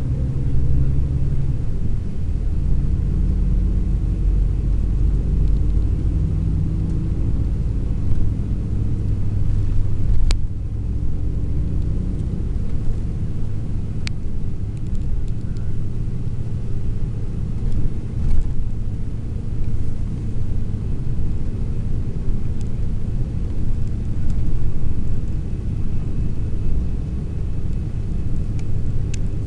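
Long-distance sleeper coach under way: a steady low rumble of engine and road noise, its pitch shifting a little as the engine works. Two sharp clicks, likely cabin rattles, come about a third of the way through and a few seconds later.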